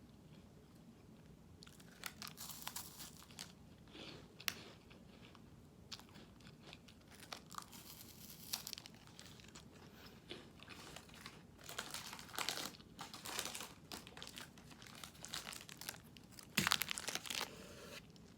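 Crisp bites and chewing of a Prince Polo chocolate-coated wafer bar: irregular sharp crunches starting about two seconds in, the loudest cluster near the end.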